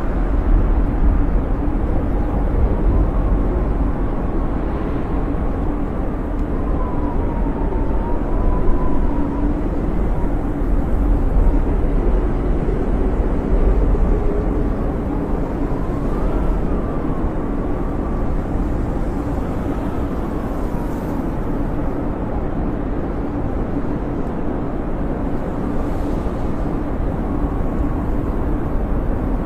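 Snowstorm wind blowing steadily with a deep rumble, and a thin whistling howl that rises and falls in pitch now and then.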